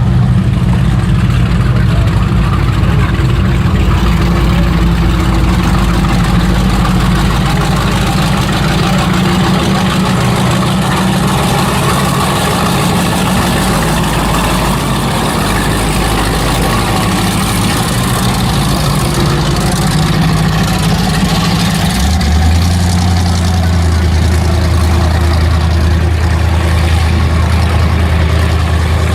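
Performance boat engines idling and burbling at low speed, with a steady, deep exhaust note. About two-thirds of the way through, a lower engine tone from another boat comes in strongly and holds.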